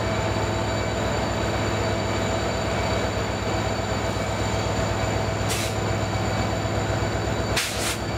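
Passenger train running, heard from an open door of the train: a steady rumble with a fast, even low throb. A short hiss comes about five and a half seconds in and another near the end.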